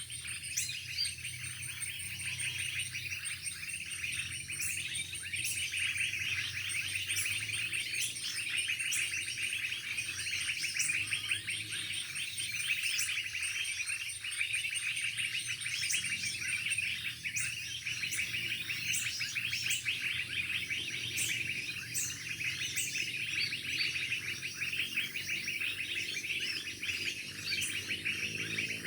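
Songbird twittering in a fast, unbroken stream of chirps, with sharp high notes about every second and a high dotted trill through the first half.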